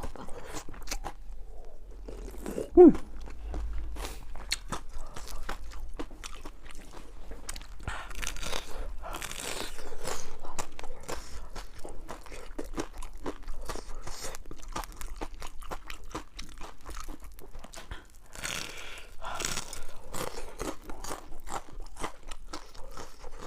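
Crispy fried food being bitten and chewed close to the microphone: irregular crunches with louder bouts of crunching twice. A brief, loud, squeaky pitched sound comes about three seconds in.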